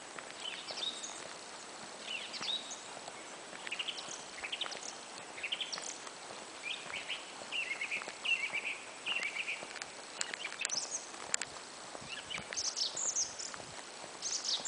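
Songbirds chirping and singing: many short, high chirps and quick trills in irregular runs, over a faint steady outdoor hiss, with a few sharp clicks about two-thirds of the way through.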